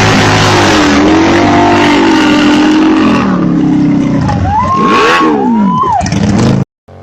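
Motor vehicle engine running hard, its pitch slowly rising and falling, then several quick revs up and down. The sound cuts off suddenly near the end.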